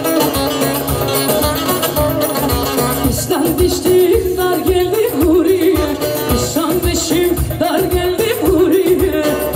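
Live Turkish folk music from an amplified band: plucked strings over a steady drum beat, with a wavering melody line coming in about three seconds in.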